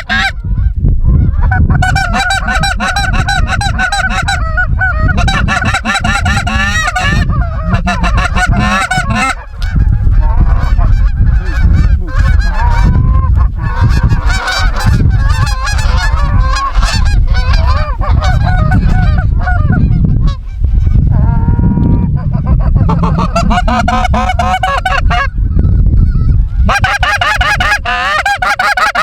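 Snow geese calling: a dense mass of overlapping high yelping honks, continuing almost without a break, over a steady low rumble.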